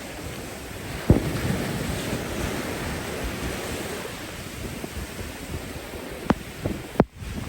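Steady rush of ocean surf in the rain, with wind buffeting the microphone and a few sharp taps, the loudest about a second in and a cluster near the end.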